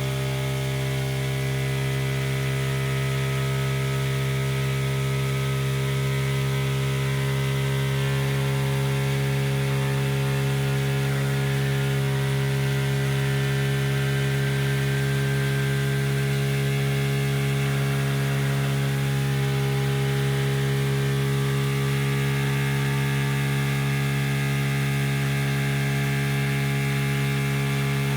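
Aidoo 1 kg mini washing machine running continuously with a loud, steady electric hum at constant pitch.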